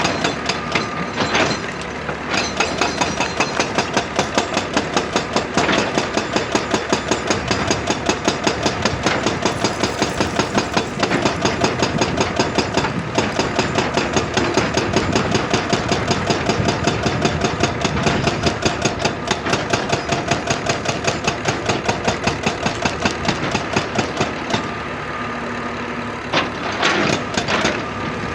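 Excavator-mounted hydraulic rock breaker pounding rock in a rapid, steady hammering of several blows a second over the diesel engine. It stops for a couple of seconds near the end, leaving the engine running, then starts again.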